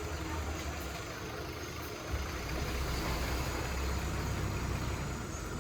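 Heavy diesel engine of earthmoving equipment running steadily with a low rumble, a little louder from about two seconds in.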